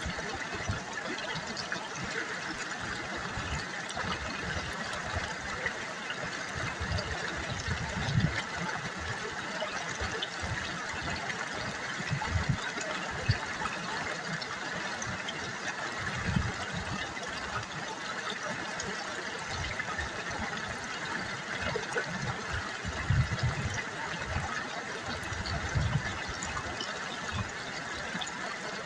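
River water babbling: a steady rushing trickle with irregular low gurgles.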